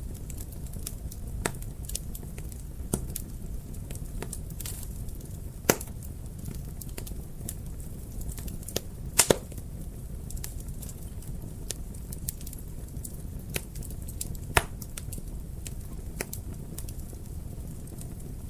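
Wood fire crackling in a fireplace: a steady low rumble of flames with scattered sharp pops, the loudest about six seconds in, a quick double pop a little after nine seconds, and another near fifteen seconds.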